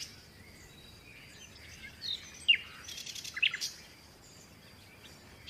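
Faint birdsong: a few short, quick falling chirps about two to three and a half seconds in.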